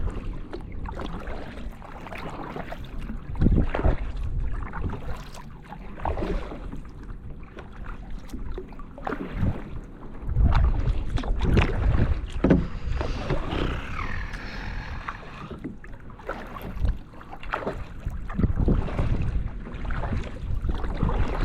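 Kayak paddle strokes dipping and splashing in the water, with wind rumbling on the microphone.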